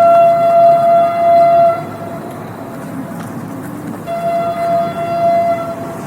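Train horn sounding two long, steady blasts of about two seconds each, the second starting about four seconds in.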